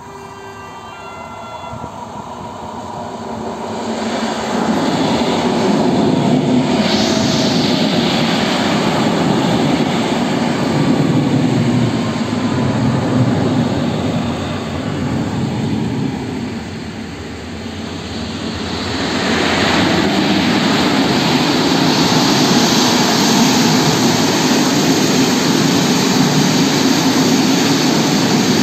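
Electric trains passing a level crossing: an EN57AL electric multiple unit runs by, then, after a brief lull, a freight train of tank wagons hauled by an ET22 electric locomotive, with steady wheel-on-rail rumble.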